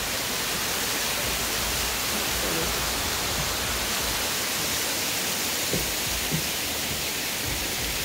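Waterfall and cascading creek water rushing over rock ledges: a steady, even rush.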